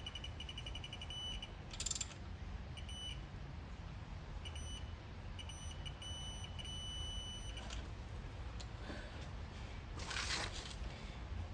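Digital torque wrench adapter beeping: runs of rapid high beeps, then one steady tone held for about two seconds, the signal that a bolt has been brought up to its set torque. Short clattering noises of tools come about two seconds in and again near the end.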